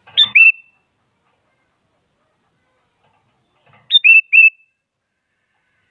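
Sooty-headed bulbul (kutilang) song: two short whistled phrases about four seconds apart, each a high note followed by quick down-slurred whistles.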